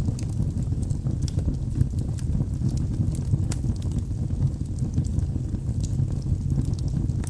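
Wood fire burning in a fireplace: a steady low rumble of the flames with irregular crackles and pops from the burning logs.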